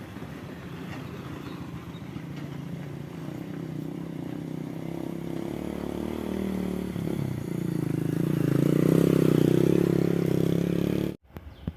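Heavy loaded sand truck's engine labouring on a steep climb, growing steadily louder, then cutting off abruptly near the end.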